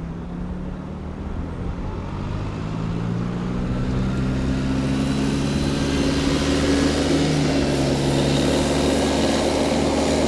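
A motor vehicle's engine running steadily, slowly growing louder over the first few seconds and then holding.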